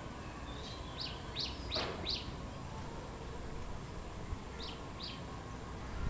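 A small bird chirping: a quick run of short, high chirps between about one and two seconds in, then two more near the end, over a steady low background rumble.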